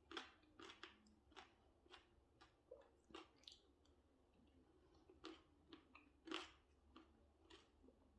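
Faint chewing of a mouthful of candy cane Blizzard, with irregular crunches from the hard peppermint candy cane pieces, about two a second.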